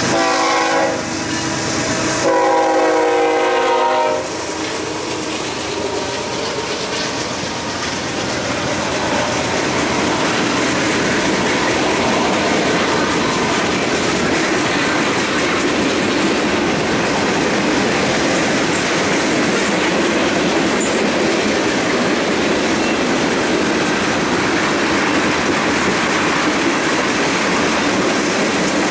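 Horn of a BNSF ES44C4 diesel locomotive leading a freight train: one blast cuts off about a second in and a second blast sounds from about two to four seconds in. After that the train rolls past with steady wheel-on-rail noise and clatter.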